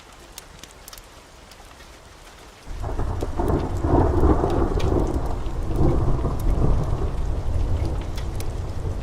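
Rain falling steadily with scattered sharp crackles, then about three seconds in a long roll of thunder starts suddenly and rumbles on, loud and deep, for the rest of the time.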